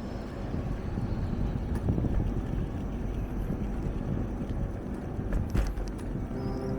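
Wind buffeting the microphone and road rumble from a bicycle being ridden, with a few small clicks and rattles. Faint music begins to fade in near the end.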